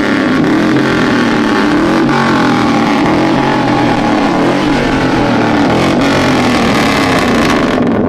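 Loud vehicle engine running hard at high revs, its pitch wavering slightly, with a dense rushing noise over it; the high end drops away near the end.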